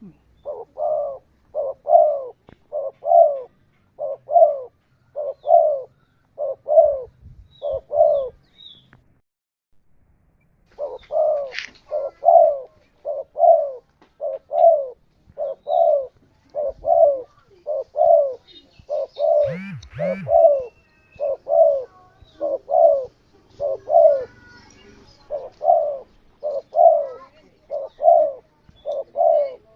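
Spotted dove (tekukur) cooing over and over, a steady run of low, evenly spaced coos that pauses briefly about nine seconds in and then carries on. A short, higher sound cuts in once about two-thirds of the way through.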